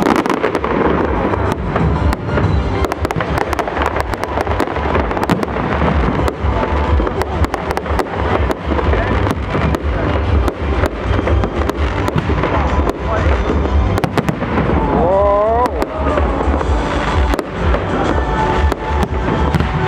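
Fireworks salute: aerial shells and ground fountains going off in a dense, irregular run of bangs and crackles.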